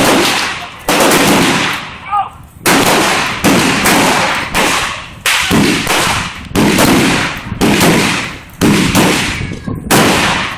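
A loud series of sharp blasts, about one a second, each starting suddenly and fading away before the next.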